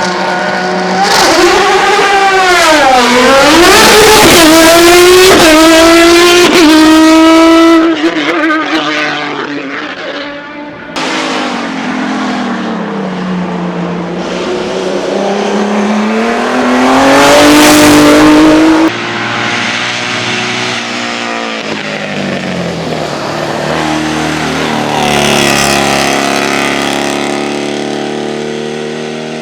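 Hillclimb race car engines at full throttle, revs climbing and dropping through gear changes and braking as cars pass one after another. The sound cuts abruptly from one car to the next a few times.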